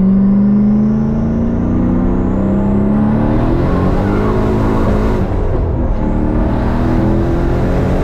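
Turbocharged 1998 Chevrolet Camaro SS V8 accelerating hard. The engine pitch climbs along with a high turbo whine, dips at a gear shift about five and a half seconds in, then climbs again.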